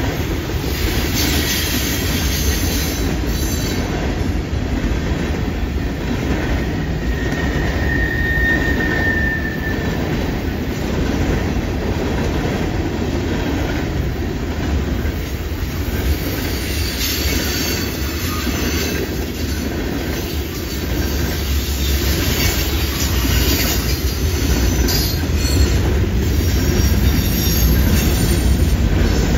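Freight cars of a mixed freight train (tank cars, covered hoppers, boxcars) rolling past through a curve: a steady low rumble of wheels on rail, with recurring stretches of higher-pitched clatter. A brief high wheel squeal comes about eight seconds in.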